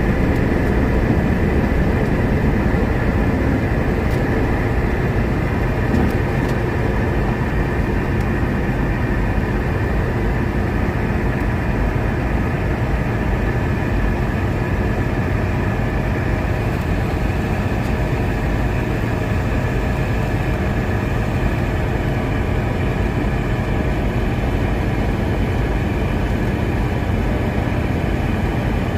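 Steady drone inside the cabin of a Boeing 717-200 under power: its rear-mounted Rolls-Royce BR715 turbofans and the rushing air, with a few steady whining tones over a deep rumble.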